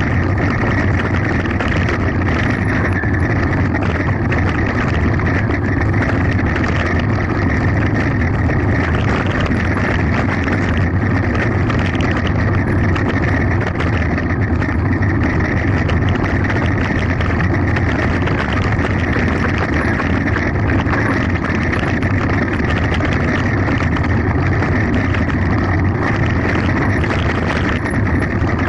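Steady wind noise on the microphone mixed with the tyre and frame rattle of a mountain bike descending fast, loud and unbroken.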